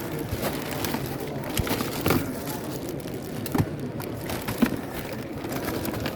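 Indistinct background chatter of a crowd in a busy hall, with scattered clicks and knocks from things being handled.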